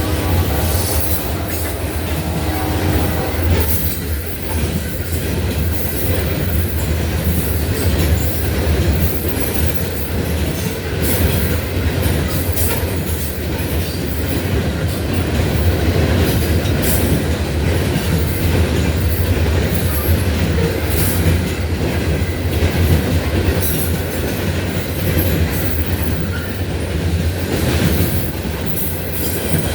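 Norfolk Southern loaded coal train passing: the locomotive horn sounds for the first three seconds or so and stops. Then the heavy coal cars roll by with a steady low rumble and repeated clicks of wheels over rail joints.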